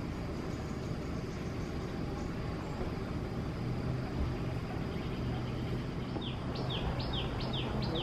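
A bird calling in a quick run of short, falling chirps, about four a second, starting about six seconds in. Under it runs a steady low motor hum.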